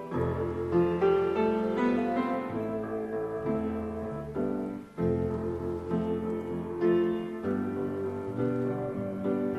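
Piano playing the instrumental introduction of a slow rock ballad, with chords changing every second or so, before the singing comes in.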